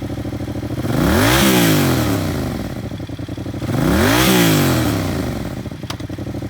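2017 Yamaha FZ-07's 689 cc parallel-twin engine idling and revved twice, the pitch climbing and falling back with each rev, about a second in and again about four seconds in. A single sharp click near the end.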